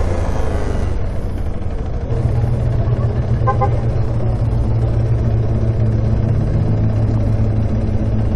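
Engines running at low speed in slow traffic: a steady low rumble that rises in pitch and gets louder about two seconds in. A few short high beeps come about three and a half seconds in.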